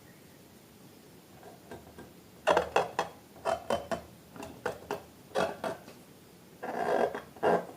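Slime being worked by hand, giving a run of irregular short sticky squelches and crackles that start about two and a half seconds in and come thicker near the end.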